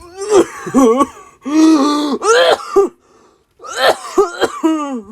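A person's voice making wordless, breathy vocal noises in about five bursts: wheezing, coughing-like groans, some wavering and some held.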